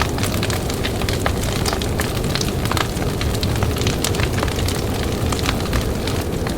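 Campfire crackling with many sharp pops and snaps, over a steady low rumble of blizzard wind.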